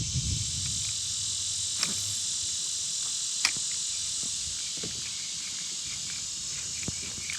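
Steady high-pitched insect chorus, with a few short sharp clicks, the loudest about three and a half seconds in.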